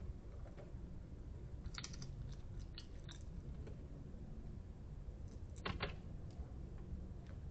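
A small wild animal crunching hard food such as peanuts or dog kibble: a few separate sharp crunches, with the loudest pair about two thirds of the way in, over a steady low background hum.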